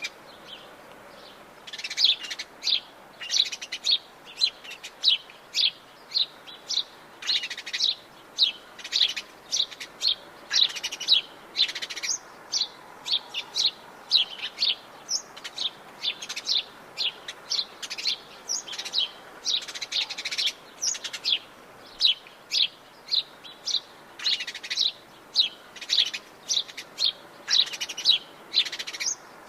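Birds singing in the Atlantic Forest: many short, sharp, high chirps in quick clusters, over a faint steady hiss of the forest.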